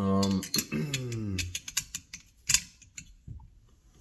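A man's drawn-out wordless vocal sound, held and then falling in pitch for about a second and a half, followed by scattered sharp clicks and clinks of small metal parts and tools being handled.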